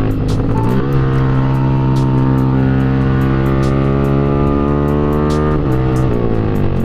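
Yamaha R15 V3's 155 cc single-cylinder engine under way. The revs fall right at the start, climb again about a second in and hold steady, then fall once more near the end.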